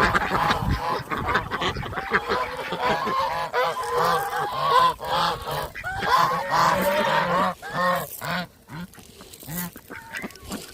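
A flock of domestic geese honking together: many overlapping calls, thinning out and getting quieter near the end.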